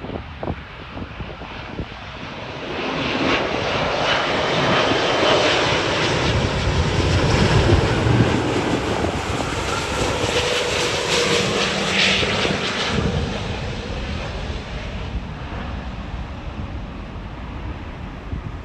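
Jet airliner passing by: the engine noise swells from about three seconds in, is loudest for several seconds in the middle with faint gliding tones, and fades away over the last few seconds.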